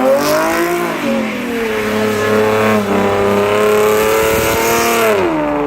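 Car engine revving: the pitch climbs briefly, eases back, holds at high revs for a few seconds, then drops near the end.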